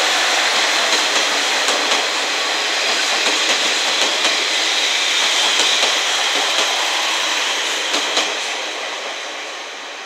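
Four-car KiHa 40-series diesel railcar train running past at low speed, its wheels clicking over rail joints at irregular intervals. The sound fades away over the last couple of seconds as the last car moves off.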